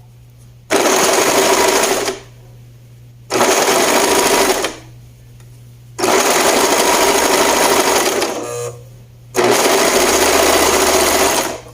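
Sewing machine stitching in four bursts of a second or two each, stopping and starting between them.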